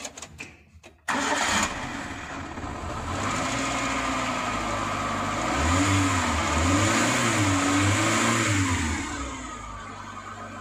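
Maruti Eeco's four-cylinder petrol engine starting about a second in, freshly fitted with a new fuel filter. It catches at once and runs steadily, is revved up and down three times, then drops back to a quieter idle near the end.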